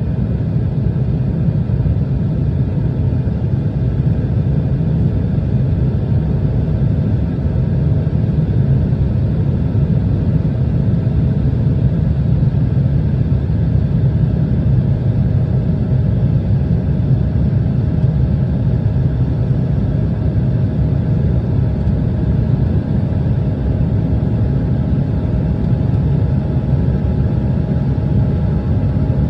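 Steady cabin drone of an Embraer ERJ-175 airliner: its two turbofan engines and the airflow make an even low rumble with faint steady tones above it, unchanging throughout.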